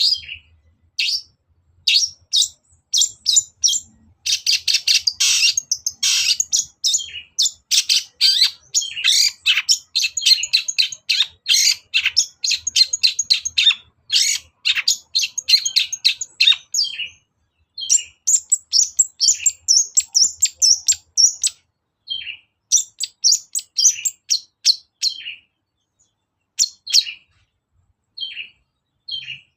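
Long-tailed shrike (cendet) singing: fast runs of short, sharp, high chirps and calls, very dense in the first half, then broken into shorter phrases with brief pauses.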